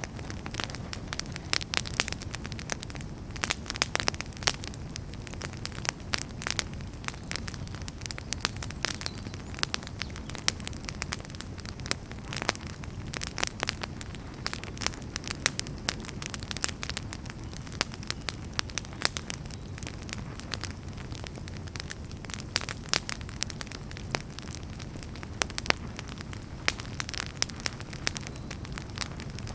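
Wood fire burning steadily, with frequent irregular crackles and pops over a low, even rumble of flames.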